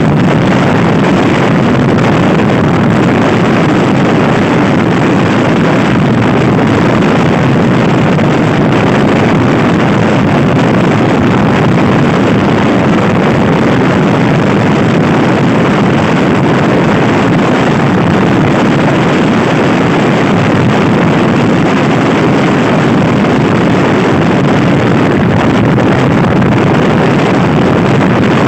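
Loud, steady wind noise on the microphone of a Honda Scoopy i scooter being ridden fast.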